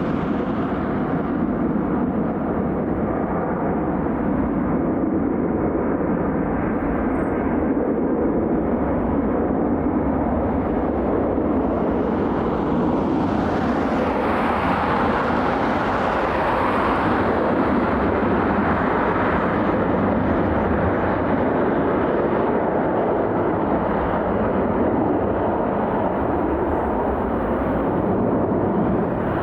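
Jet airliner engines, a steady rushing noise that swells and brightens about halfway through, then eases back.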